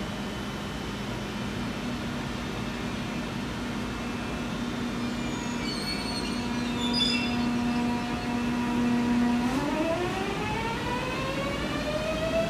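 Train running with a steady motor hum, which rises smoothly in pitch from about nine seconds in as it speeds up. Brief high squeals about halfway through.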